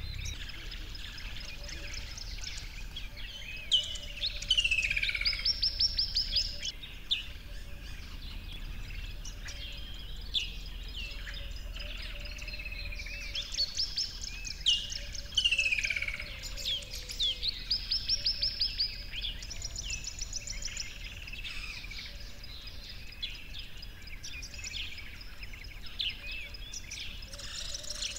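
Birds chirping and singing, with a loud phrase of a falling whistle followed by a fast trill heard twice, about eleven seconds apart.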